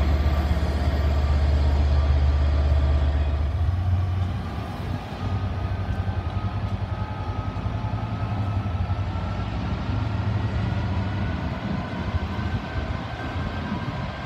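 LNER intercity train in the station: a deep, steady hum that fades after about four seconds, leaving a lighter hum with a faint whine that rises slowly in pitch.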